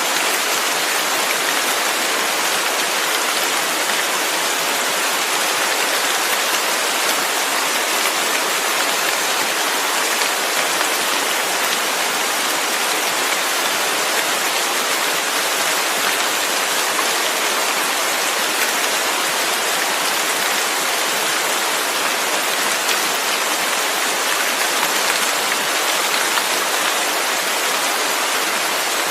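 Steady rain falling, an even hiss with a dense patter of fine drops and no change.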